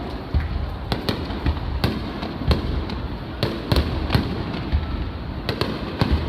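Aerial fireworks bursting in quick, irregular succession: many sharp bangs and crackles over a continuous low rumble of distant booms.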